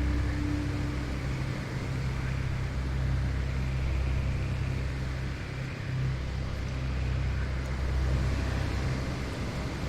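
Steady rushing wind in a forest, with a deep, even low rumble underneath and no distinct events.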